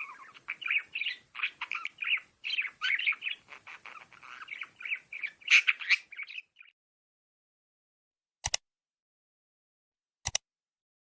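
A flock of cockatiels chirping and squawking together in quick, overlapping calls, which stop abruptly after about six and a half seconds. Two sharp clicks follow near the end.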